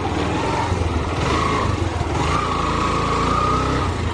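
Motorcycle engine running steadily while riding, with a low rumble and a wavering whine.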